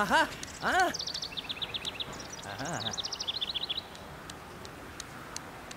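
Two short rising-and-falling calls at the start, then a rapid run of high, bird-like chirping, about ten chirps a second for some three seconds, with a few faint ticks after it.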